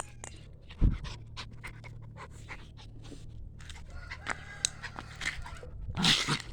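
Poodle puppy panting, with scattered light ticks throughout and a dull thump about a second in.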